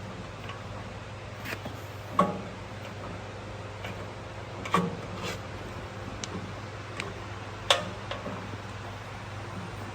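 Scattered metal clicks and taps as a split pin is worked into a jack stand's hole, with three sharper clicks about two, five and eight seconds in, over a steady low hum.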